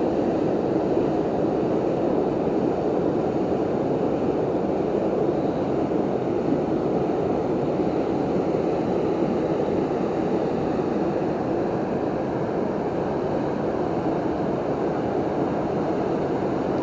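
Steady rush of a waterfall's falling water, an even, unbroken roar.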